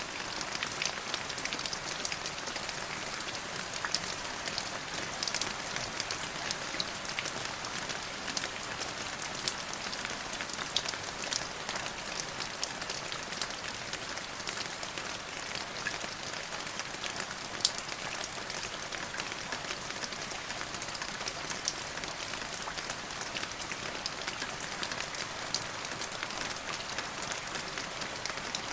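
Steady rain falling, with many individual drops pattering sharply on near surfaces over an even hiss.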